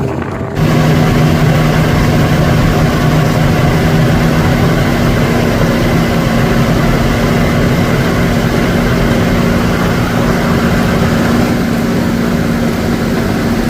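A fire boat's engine running loudly and steadily with an even hum. It cuts in abruptly about half a second in.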